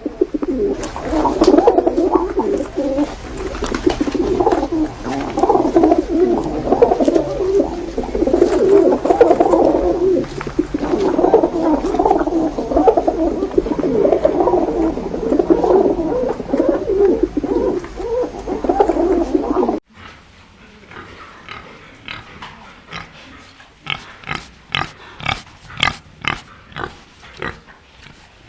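A dense chorus of many overlapping animal calls from a crowd of animals. About two thirds of the way through it cuts off suddenly, and a quieter run of short, separate calls follows.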